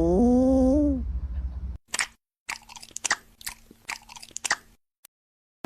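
Crisp, irregular crunching and chewing of something crunchy for about three seconds, stopping suddenly. It comes after a drawn-out vocal sound that rises and then falls in the first second.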